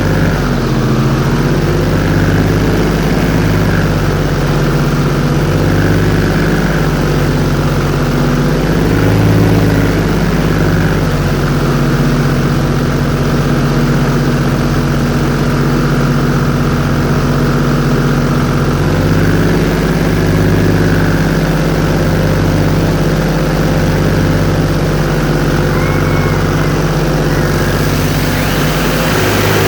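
Airboat's engine and propeller running loudly and steadily, a low drone with a slow regular throb.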